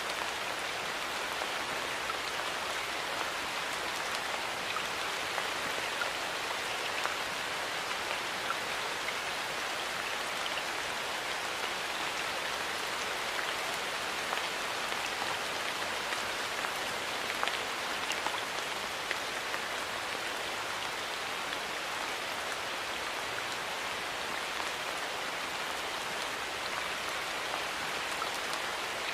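Steady rain falling and pattering on a surface, a constant hiss dotted with small individual drop ticks.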